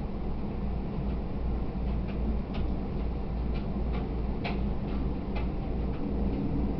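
E127-series electric train running, heard from inside the car: a steady low rumble and hum with light, irregular ticks and rattles every half second or so.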